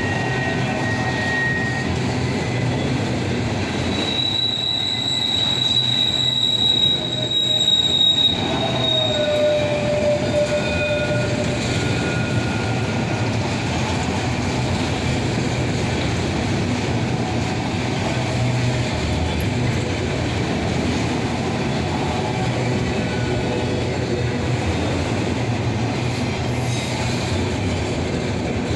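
Intermodal freight cars rolling past steadily, with wheels squealing shrilly on the rail for several seconds near the start and a lower squeal following.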